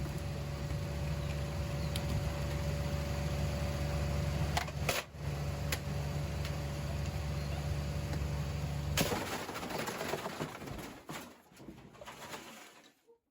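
Washing machine running with a steady motor hum and a few clicks. About nine seconds in, the hum cuts off and a noisy rattle follows, dying away to near silence.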